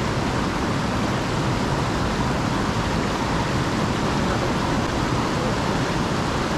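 Mountain headwater stream rushing steadily, an even hiss of flowing water with no breaks.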